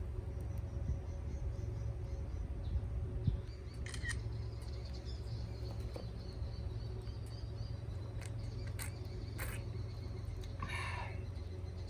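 Steady low rumble with a few sharp clicks scattered through the middle, faint high chirping, and a short bird call near the end.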